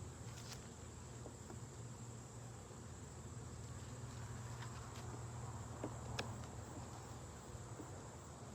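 Honeybees humming steadily around an open hive, with a few light clicks as the wooden frames are handled.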